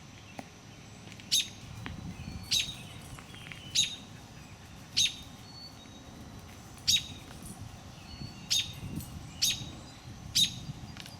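A bird giving a short, sharp, high chirp over and over, about once a second, eight times: the alarm calling of a parent bird at a black snake eating the chicks in its nest.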